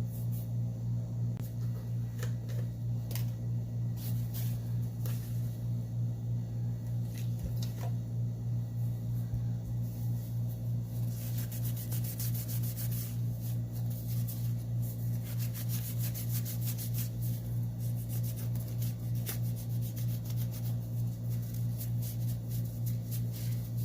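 Steady low electrical hum, pulsing a few times a second, with scattered light clicks and scraping from handling the phone's small parts during the repair.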